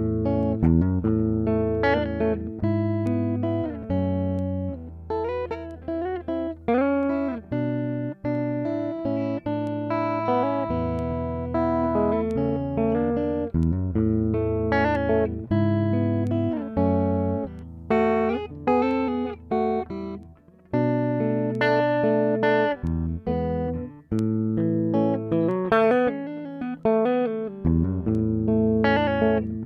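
Squier Bullet Mustang electric guitar played on its neck pickup: strummed chords mixed with single-note runs, some notes bent and wavering in pitch.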